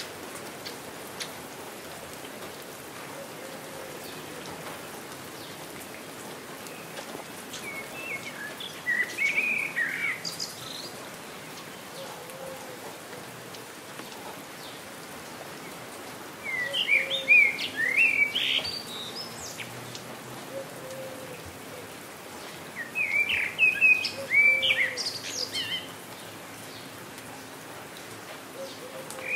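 Steady light rain with a songbird singing three short bursts of quick chirping song, a few seconds apart.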